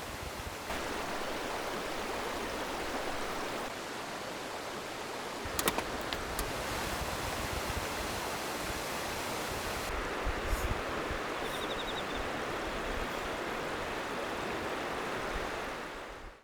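River water flowing, a steady rushing, with a couple of faint clicks around the middle. It fades out near the end.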